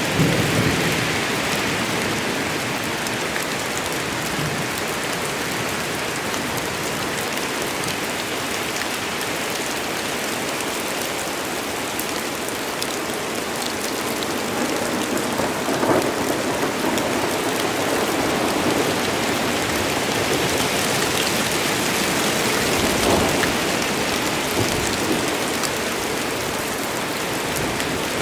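Steady rain falling in a forest during a thunderstorm, with rumbles of thunder swelling up a couple of times, about halfway through and again near the end.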